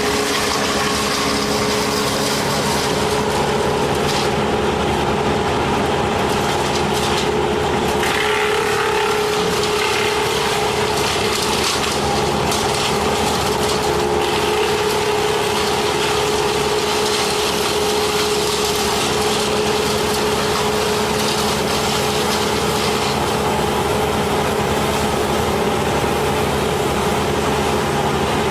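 An engine running steadily at an even pitch, with wood-working noise over it.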